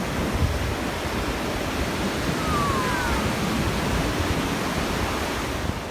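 Ocean surf washing onto the beach, a steady rushing noise with wind on the microphone. About halfway through, a faint short gliding tone rises above it.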